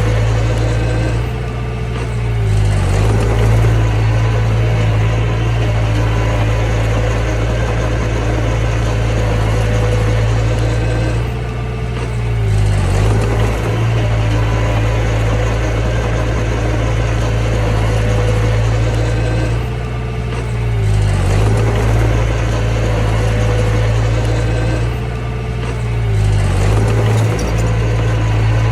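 Mini bulldozer's diesel engine running steadily while it pushes soil. Four times the engine note sags briefly in pitch and loudness, then picks back up.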